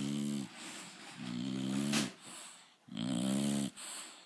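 Bulldog snoring loudly: three buzzing snores, each under a second, about a second and a half apart, with softer breathy hiss between them.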